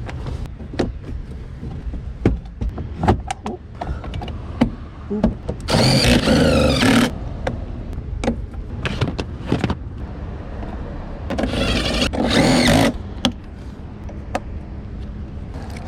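Clicks and knocks of interior trim and fasteners being handled over a low steady rumble. Twice, about six and twelve seconds in, a power tool whirs for about a second, as when a cordless screwdriver drives in the dash screws.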